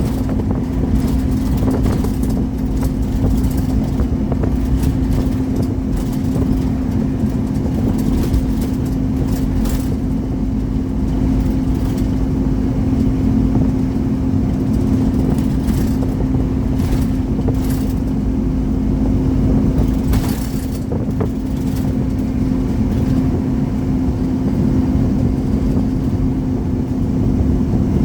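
Scania Omnicity single-deck bus with its 230 hp Scania engine running under way: a steady engine drone over road rumble, with occasional short rattles.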